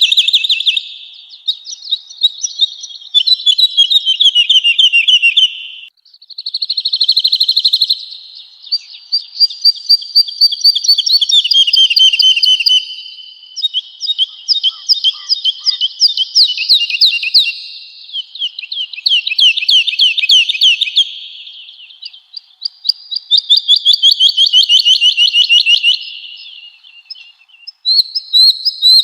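Woodlark singing: a run of high, fast trilled phrases a few seconds each, many falling in pitch, with short pauses between them.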